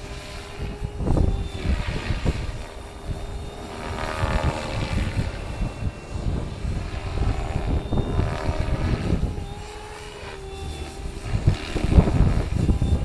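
Stretched MSHeli Protos radio-controlled helicopter with 470 mm blades flying, its motor and rotors giving a steady whine with tones that drift up and down. Heavy wind buffets the microphone throughout.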